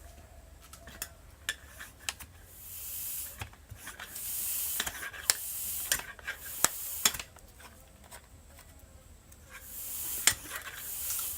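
Bicycle tyre being pumped up with a pump: several hissing strokes of air, each lasting about a second, separated by pauses, with sharp metallic clicks and knocks throughout.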